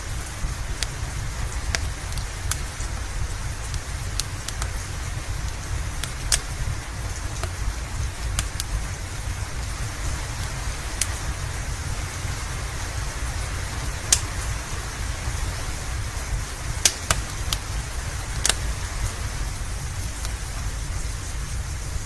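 Steady rain with a low rumble underneath, and a wood fire crackling over it in irregular sharp pops, a few of them louder.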